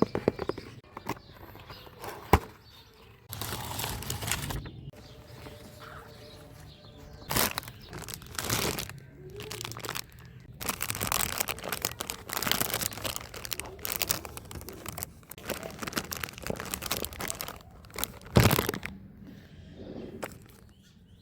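Packaging being handled, crinkled and torn open by hand while unboxing, in irregular rustling stretches with a couple of sharp knocks.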